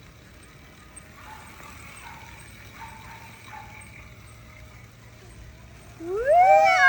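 A loud, drawn-out vocal cry about six seconds in: it rises steeply in pitch, then is held with a wavering pitch. Before it there is only a faint, steady background.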